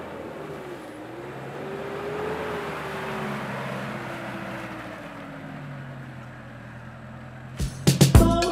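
A four-wheel-drive ute's engine running and revving up and down as it drives through mud, with a hiss of tyre and track noise under it. Music with heavy beats cuts in near the end.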